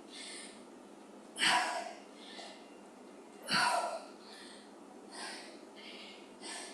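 A woman breathing hard during weighted lunges: two loud, sharp exhales about two seconds apart, with quieter in-and-out breaths between them.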